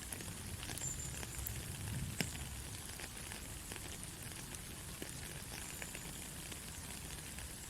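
Soft rain falling steadily, a constant hiss with many small drops ticking and one sharper drip about two seconds in.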